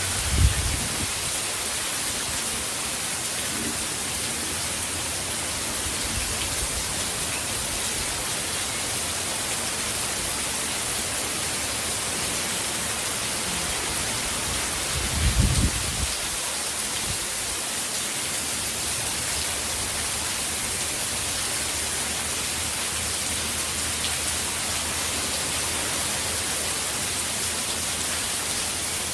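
Steady heavy hurricane rain falling, with two brief low thumps, one right at the start and one about halfway through.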